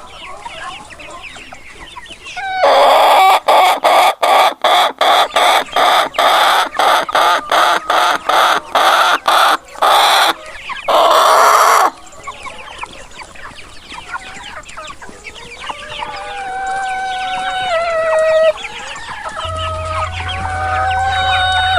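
Chickens: a loud, fast run of about twenty short clucks ending in one long call, like a hen's cackle. Quieter clucking and crowing follow, with held notes that step down in pitch.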